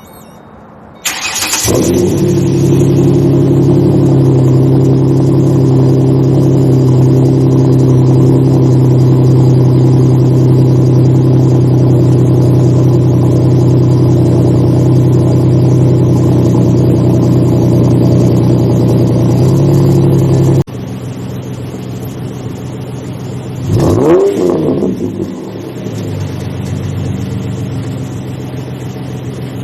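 Ford Mustang 4.0 V6 engine starting about a second in and then idling steadily. About two-thirds through, the sound cuts abruptly to a quieter idling engine that gives one quick rev, its pitch rising and falling back.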